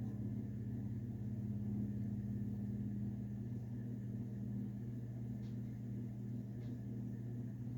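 Westinghouse InstaLock 42-inch ceiling fan running with a steady low motor hum, with two faint ticks near the end.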